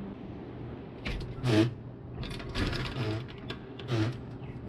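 A locked entrance door being pulled and shaken, rattling and clanking against its fastening in several irregular bursts over a steady low hum.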